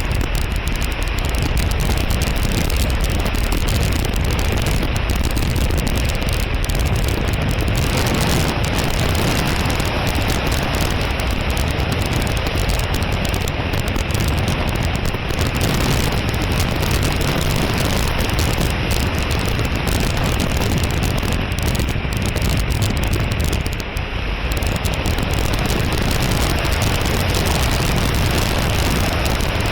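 Steady rushing wind noise buffeting the microphone, with no clear motor tone standing out.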